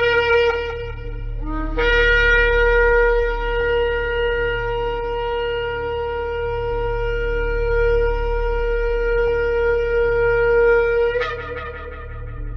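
Shofar (ram's horn) blasts: a held note ends about a second and a half in, then a short low note leaps up into one long, steady, loud blast of about nine seconds that ends with a brief upward break. A steady low hum lies underneath.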